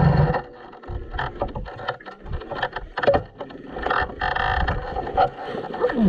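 A motorcycle engine idling stops abruptly right at the start. After it, irregular gusty rumbling of wind on the microphone continues, with a few scattered knocks.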